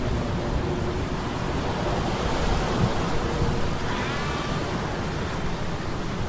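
Sea storm sound effect: a steady wash of surf and wind, with a faint, steady mechanical hum of metal gears beneath it. About four seconds in, a brief high wavering sound rises over the noise.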